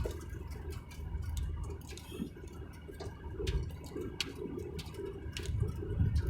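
Low, steady rumble of a moving vehicle on the road, with sharp, irregular ticks about every half second.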